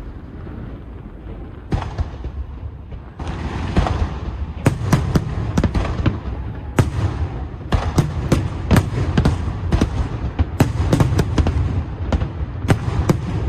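Fireworks display: aerial shells bursting with sharp bangs over a continuous low rumble and crackle. The bangs come sparsely at first, then thicken into a rapid barrage from about four seconds in.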